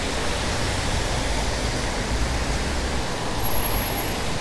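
Traffic on a rain-wet city street: a steady hiss of tyres on wet road over a low engine rumble.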